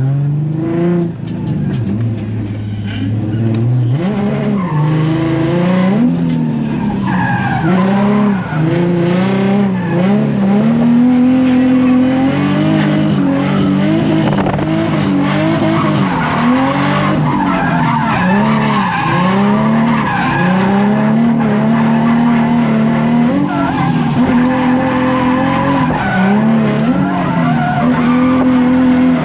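Car engine revving up and down continually under hard throttle while drifting, with tire squeal over it.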